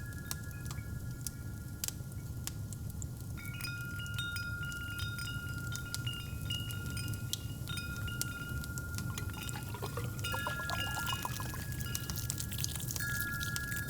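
Wind chimes ringing, with fresh strikes adding new tones over held ones, above a fireplace's steady low rumble and scattered crackles. About nine seconds in, liquid is poured into a cup for a couple of seconds, rising in pitch as it fills.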